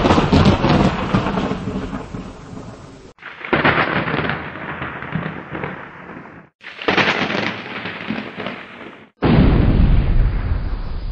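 Thunder from several separate recordings, cut one after another. A sharp crack at the start rolls into a long rumble. Fresh claps break in about 3.5, 7 and 9 seconds in, each starting suddenly and rumbling as it fades, and the last is the heaviest.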